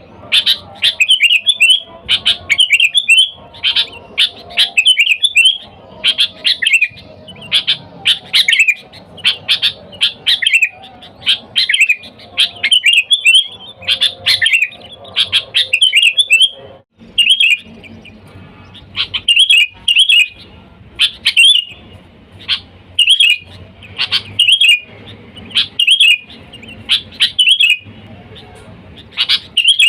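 Sooty-headed bulbul (kutilang) singing its basic calling song: short, bright, chattering phrases repeated about once a second, with a brief break a little past halfway.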